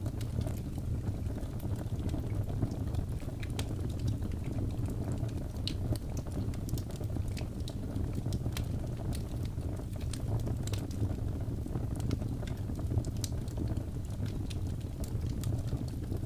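Wood fire burning, with a steady low rumble under frequent sharp crackles and pops.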